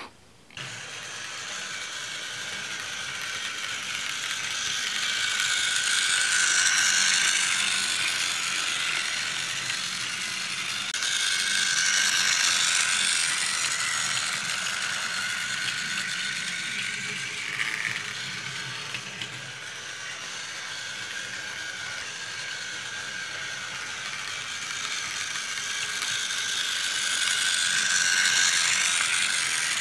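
Battery-powered Tomy Douglas toy train engine running on plastic track, its small motor and gears whirring and clattering steadily. It grows louder and fainter by turns as the engine travels around the layout.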